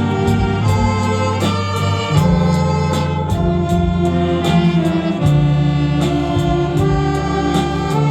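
Saxophone big band playing a Korean trot pop-song medley: a full band of saxophones over a steady bass line and drum beat.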